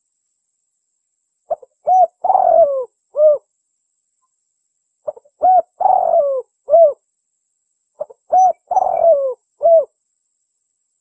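Spotted dove (tekukur) cooing: three repeated call phrases about three seconds apart, each a short lead note followed by a few coos, one of them longer with a falling tail.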